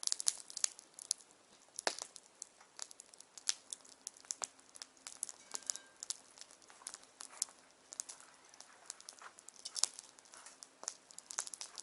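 Wood bonfire crackling, with irregular sharp pops and snaps several times a second.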